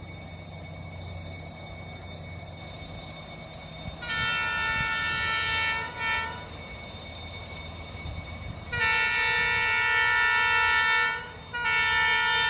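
Air horn of a D19E diesel locomotive sounding: a blast of about two seconds, a brief toot, then a long blast of about two and a half seconds and another starting near the end. A low diesel rumble runs under it before the first blast.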